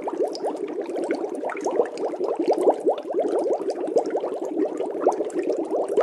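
Water bubbling steadily: a dense stream of small bubbles, heard as many quick, rising plops overlapping one another.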